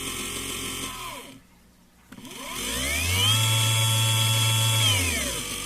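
BOMA inrunner electric motor freewheeling with no load: its whine falls away and stops about a second in, then after a short pause it spins up on the controller's soft-start ramp to a steady high whine and winds down to a lower speed near the end.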